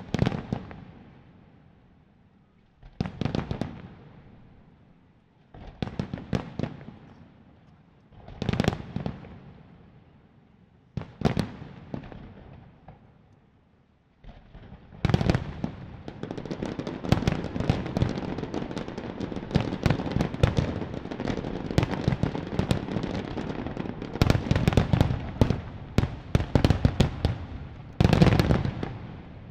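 Aerial fireworks display: single shells bang about every three seconds, each trailing off, then from about halfway a dense barrage of rapid bangs and crackling runs on without a break.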